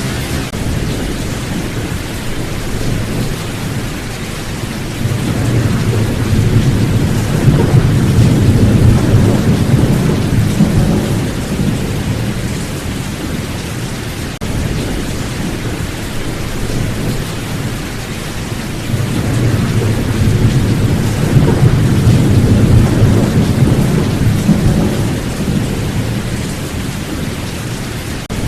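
Steady heavy rain with rolling thunder: two long, low rumbles swell up and die away, one about a fifth of the way in and another about two-thirds of the way through.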